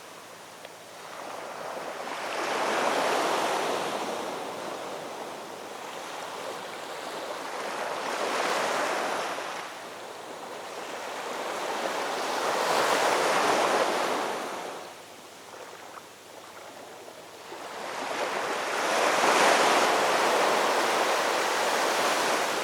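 Ocean surf: four waves breaking and washing in, each swelling up and fading away over several seconds, the last one cut off suddenly at the end.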